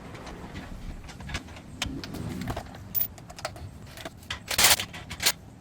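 Metal exhaust pipe clinking and knocking against the clamp and joint as it is worked on by hand, with a louder metallic scrape about four and a half seconds in.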